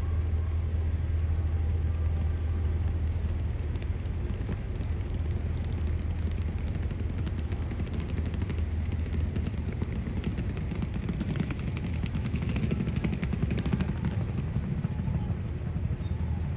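Seaplane's turboprop engine running with a steady low drone, growing louder from about eleven seconds in.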